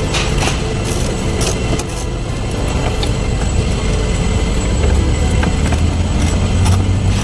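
A vehicle engine runs steadily with a low rumble that grows louder about five seconds in. Scattered light metallic clicks and clinks sound over it.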